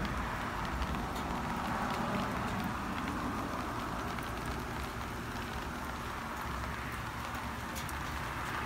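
Heavy rain falling steadily on trees, gravel and plastic furniture covers, with scattered sharp taps of drops and a low steady rumble underneath.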